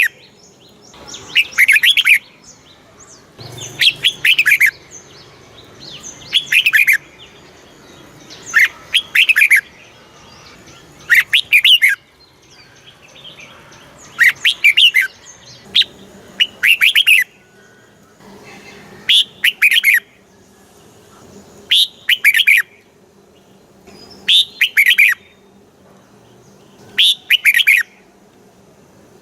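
Red-whiskered bulbul singing short, loud, warbling song phrases over and over, about one every two and a half seconds, each lasting about a second. A faint steady hum lies underneath between the phrases.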